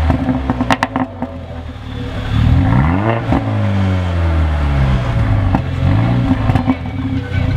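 Mercedes-Benz A45 AMG's turbocharged 2.0-litre four-cylinder, breathing through the AMG Performance Sports Exhaust, revved up and let fall twice while standing. There are short pops and crackles from the exhaust as the revs drop on the overrun.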